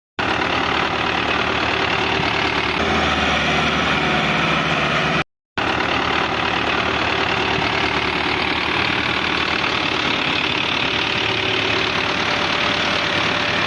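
Massey Ferguson tractor's diesel engine running steadily under load, with the sound cutting out briefly about five seconds in.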